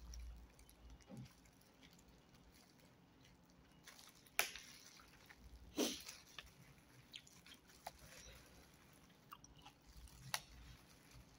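Quiet chewing of a mouthful of food, with a few sharp clicks scattered through, three of them louder than the rest.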